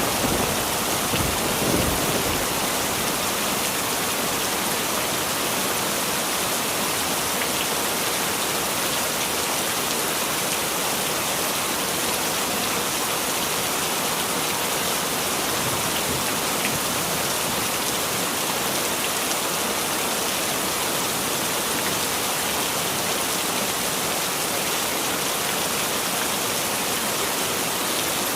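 Heavy rain falling steadily, with the low rumble of thunder dying away in the first couple of seconds.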